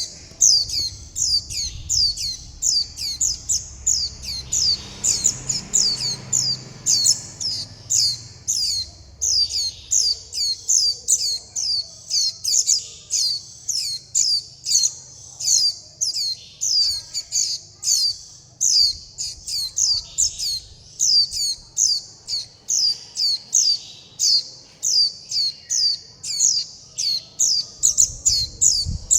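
Young white-eye giving a continuous run of thin, high calls that each fall in pitch, about two or three a second: the begging calls of a fledgling calling for its parent to be fed.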